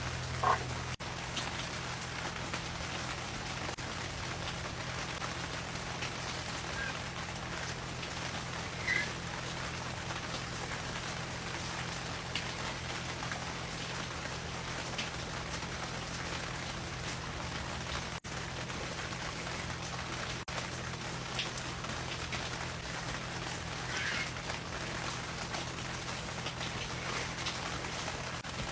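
Steady rain falling, an even hiss throughout, with a few brief high chirps from birds now and then.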